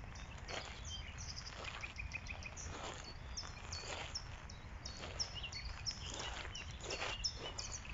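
Small birds chirping, many short high notes one after another, with a quick run of repeated notes early on, over a low steady background rumble.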